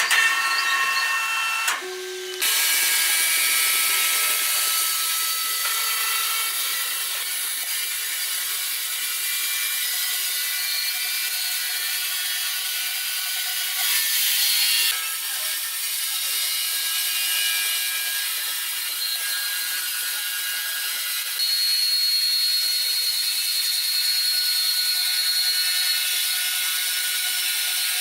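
Steady, hissy machine noise from wood-processing machinery, with thin whining tones through it. It drops out briefly about two seconds in, and a thin high whine joins it in the second half.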